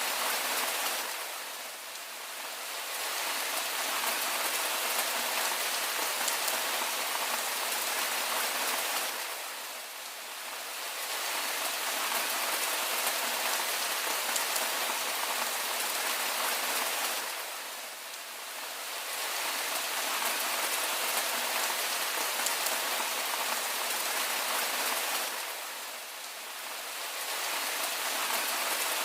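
Steady rain falling, an even hiss of drops with no thunder, dipping briefly in loudness about every eight seconds.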